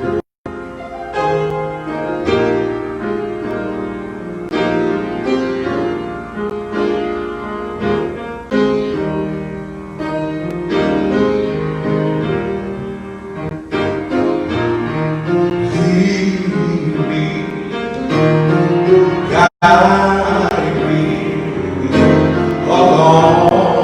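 Church music: a piano or keyboard plays sustained chords. Voices come in singing in the last few seconds, after a brief cut-out in the sound.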